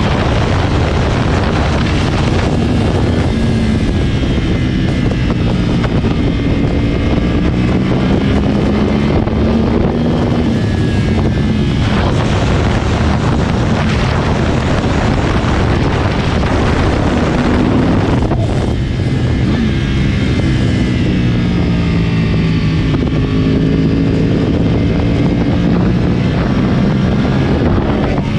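2010 Yamaha R1's crossplane inline-four, decatted and on an Akrapovic exhaust, running under way. The revs climb and fall again and again, with several sudden breaks in the sound.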